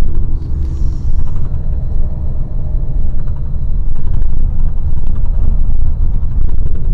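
Low, steady rumble of a moving road vehicle, heavy in the bass and fluctuating in loudness.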